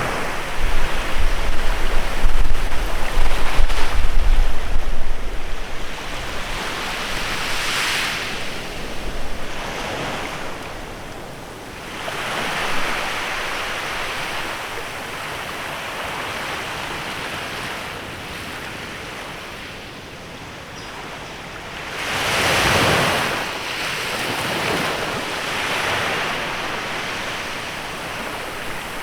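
Small waves washing onto a sandy bay shore, swelling and fading every few seconds, with the biggest wash a little over two-thirds in. In the first few seconds wind gusts buffet the microphone with a low rumble.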